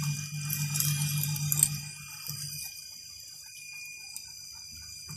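Metal lathe running with its steady whine, with metallic rattling and ticking over the first second or two as the parting tool works at the groove. A low hum drops out about two and a half seconds in and returns near the end.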